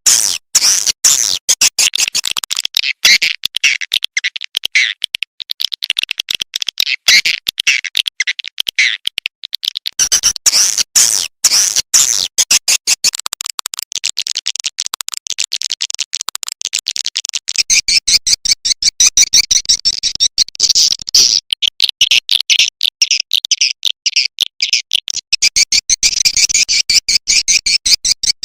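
Swiftlet lure call recording: a dense, rapid stream of high, sharp twittering chirps from edible-nest swiftlets, the calling sound played to draw the birds into a nesting house.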